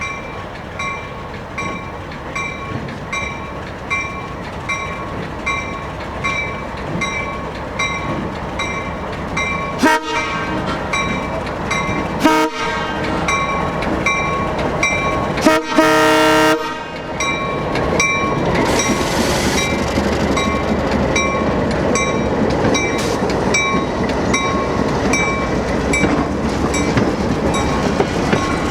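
A train's horn sounds three blasts, two short and then a longer one about sixteen seconds in, over a bell ringing steadily about twice a second. After the horn, the rumble and clatter of the train moving along the track grows louder.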